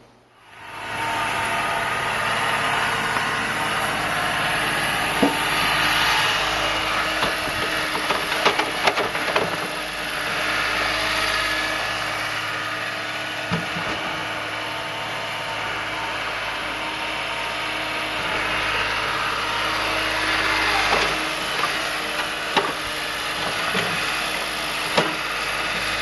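An engine running steadily, with a constant hum under a broad rushing noise and a few scattered clicks, starting just after the opening and cutting out at the end.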